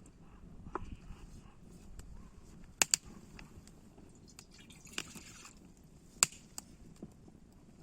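A few sharp clicks and knocks: two close together about three seconds in and a loud single one past six seconds, with a brief rustle around five seconds.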